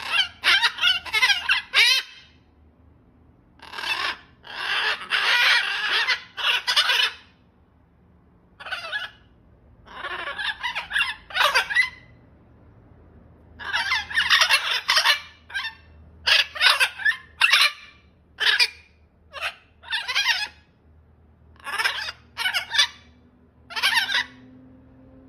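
Macaws calling: loud, harsh, raspy squawks in repeated bouts of about one to three seconds, with short pauses between.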